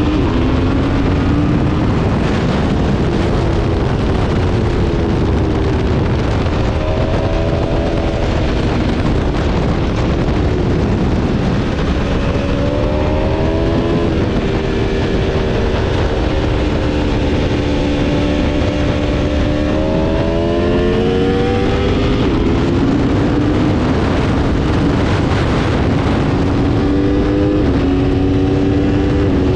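Aprilia Tuono V4 motorcycle's V4 engine under hard riding, its pitch climbing through the revs and dropping back at each gear change or off the throttle, again and again. A heavy rush of wind noise runs underneath.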